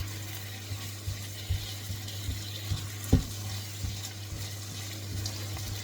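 Tomato puree frying in fat in a wok, a steady sizzle while it is stirred, with scattered knocks of the utensil on the pan, the loudest about three seconds in. A steady low hum runs underneath.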